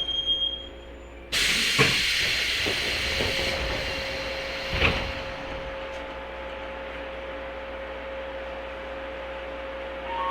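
103-series electric train car coming to rest: the running noise dies away, then about a second in a sudden loud hiss of released compressed air starts and slowly fades over several seconds, with two thumps as the sliding doors work, over a steady hum from the car's equipment.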